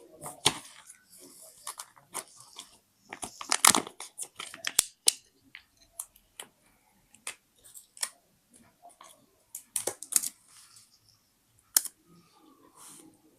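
Scrapbooking paper and craft materials handled by hand: scattered taps, clicks and short paper rustles with quiet gaps between them, busiest a few seconds in.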